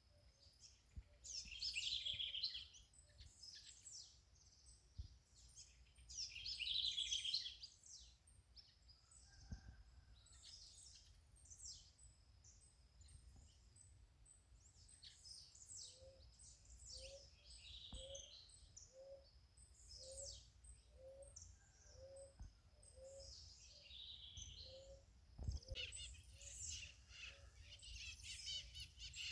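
Several birds singing and chirping, with loud bursts of song twice in the first half. From about the middle a low short note repeats about once a second for several seconds, over a faint low rumble.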